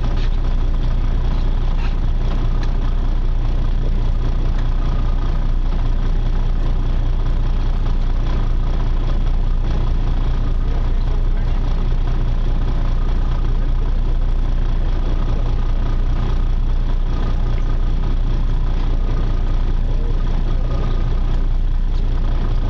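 Charter boat's engine running steadily: a loud, unchanging low drone with a faint steady whine above it.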